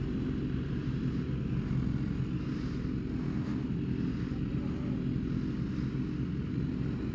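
Racing motorcycle engines idling together in a steady drone.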